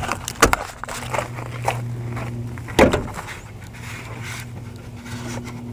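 Scattered clicks and knocks of someone moving around a vehicle, with one louder knock just under three seconds in, over a steady low hum.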